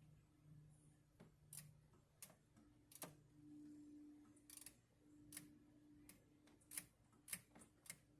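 Faint, scattered clicks and taps of hand tools being worked, about a dozen at uneven intervals, over a low steady hum.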